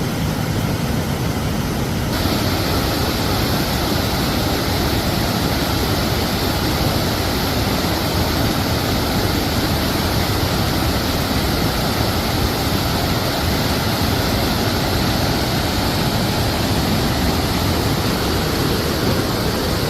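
Mae Ya waterfall: a steady, loud rush of falling water with no break. About two seconds in the high hiss grows stronger and stays that way.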